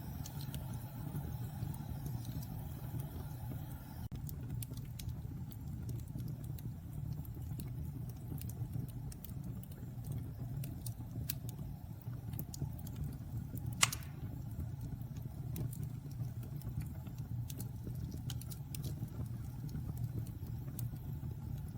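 Fire burning in a fireplace: a steady low rumble of flames with scattered small crackles, and one sharp, louder pop a little past halfway.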